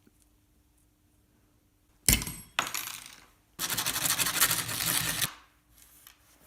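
Steel wire clinks sharply with a metallic ring about two seconds in, then clinks again. After that comes a fast, dense rattling scrape that lasts nearly two seconds.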